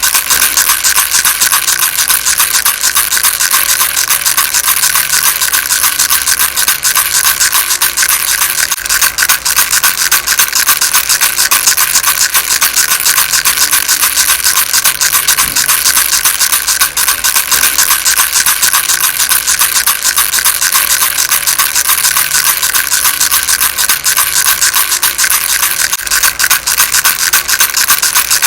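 A baby rattle shaken fast and without pause, giving a dense, steady rattle.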